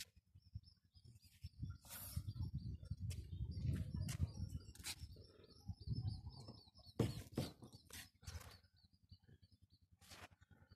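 Small birds chirping in a rapid run of high chirps, over a low rumble of wind on the microphone, with a few sharp knocks, the loudest about seven seconds in.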